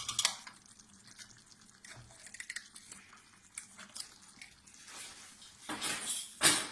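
Cooking handling sounds at the stove as honey goes into the korma sauce: light spoon clicks and faint liquid sounds, then a louder brief rushing noise in two parts about six seconds in.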